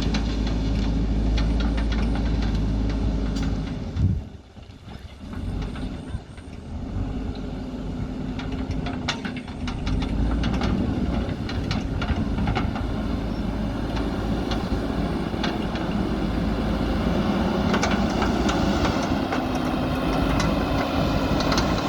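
JCB backhoe loader's diesel engine running steadily, with scattered knocks and clicks. A sudden knock about four seconds in is followed by a sharp drop in the engine noise, which builds back up over the next several seconds.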